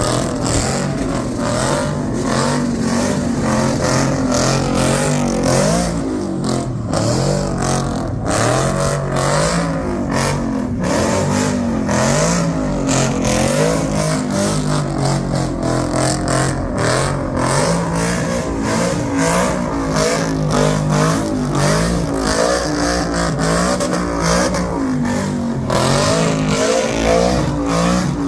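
Car engine revving hard without a break, its pitch rising and falling again and again, over a dense hiss; typical of a car doing a burnout.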